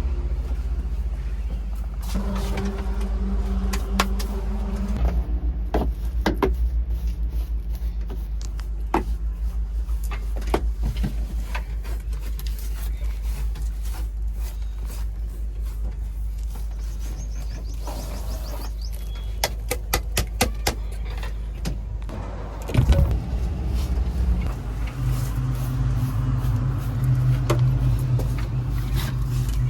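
A heavy farm machine's diesel engine running with a low, pulsing beat, overlaid by frequent knocks and clatters. About three-quarters of the way through there is a sharp, loud knock, and then the engine gets louder and its note goes up, as under more load or throttle.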